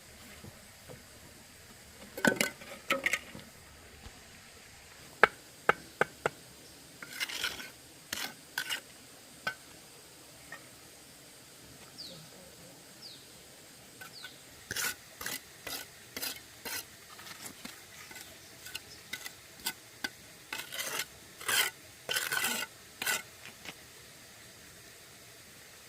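Kitchen utensils clinking and scraping against cookware, in short irregular strokes with sharp clicks between them.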